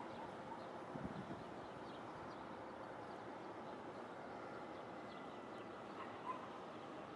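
Faint outdoor ambience: a steady hiss with a few faint, short, high chirps and calls scattered through it.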